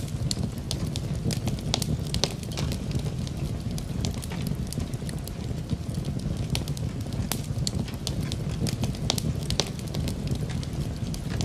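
Wood fire crackling in a fireplace, with frequent irregular sharp pops and snaps over a steady low rush, mixed with steady rain.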